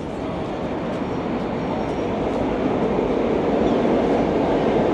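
Steady rumble of an approaching train, growing louder.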